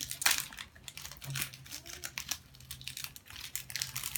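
Plastic snack packets crinkling and crackling as they are handled and worked open, in irregular crackles, the loudest near the start.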